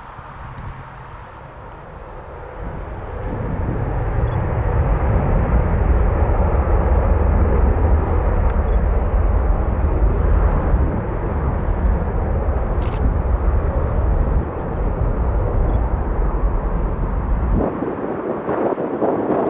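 Aircraft engines running loud and steady, mixed with heavy wind rumbling on the microphone. The sound builds a few seconds in, and the deep rumble cuts off abruptly near the end.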